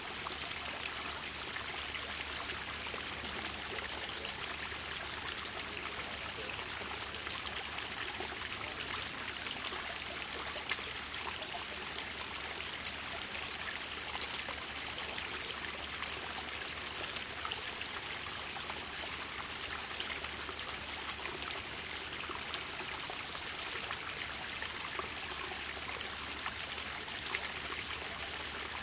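Steady rush and trickle of flowing water, like a small stream, with no engine running.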